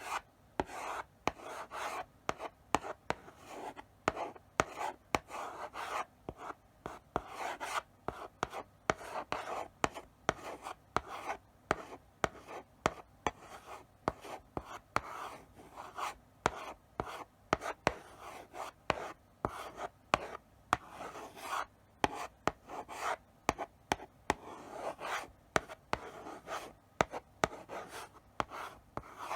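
Chalk writing slowly on a blackboard: short scratchy strokes with sharp taps as the chalk meets the board, broken by brief pauses between strokes.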